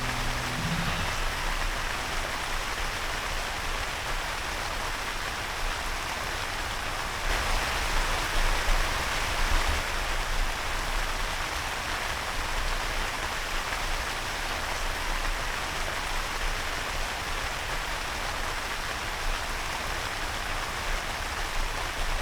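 Heavy rain falling steadily, a dense even hiss that swells a little louder about seven seconds in.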